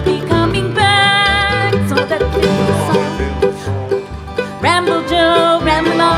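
Bluegrass band playing live, with banjo and guitar over a stepping bass line; a note slides upward a little before the end.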